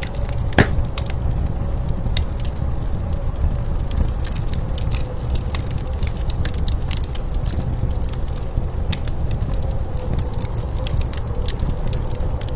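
Wood fire crackling with irregular pops, one louder pop about half a second in, over a steady low rumble of blizzard wind.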